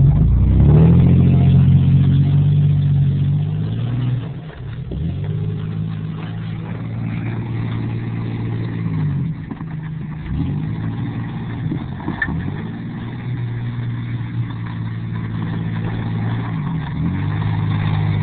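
A truck engine running hard, its revs dipping and climbing again several times.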